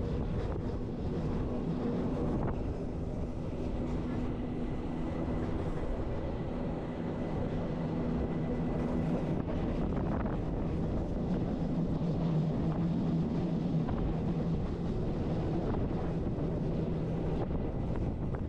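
Bernese Oberland Railway narrow-gauge electric train running steadily, heard on board: a low rumble of wheels on the rails with a steady low hum from the drive.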